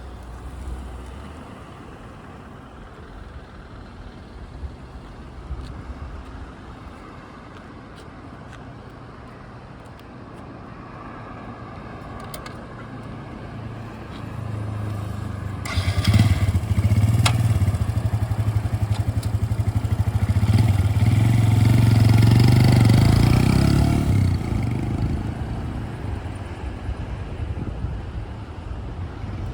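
Suzuki GZ125HS's single-cylinder four-stroke engine running at a low, steady idle, then opening up about halfway through: it grows much louder for several seconds and then fades away, as when the bike pulls off and rides away.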